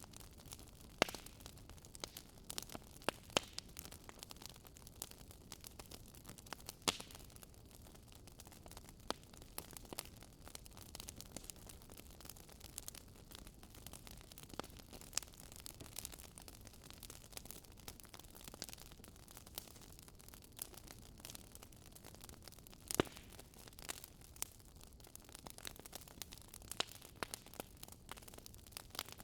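Wood fire crackling in a fireplace: irregular snaps and pops over a low steady hiss, with a few louder pops, the loudest a little before the end.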